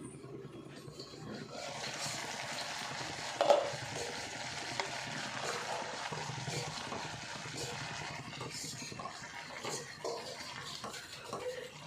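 Vegetables sizzling in a pan on the stove while a spoon stirs them, with small scraping clicks and one sharp metal knock about three and a half seconds in.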